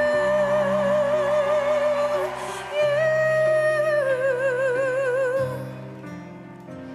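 A woman singing long held notes with wide vibrato over a backing track. The first note is held for over two seconds; a higher note follows, then steps down and wavers before fading near the end.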